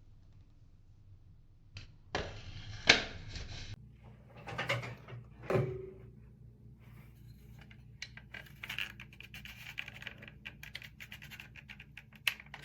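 Close-up handling noises: a scrape about two seconds in, a few knocks, then from about halfway a run of quick small clicks and rustles.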